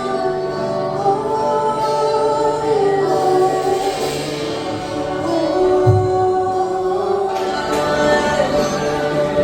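Worship music: a group singing a gospel-style praise song with instrumental backing.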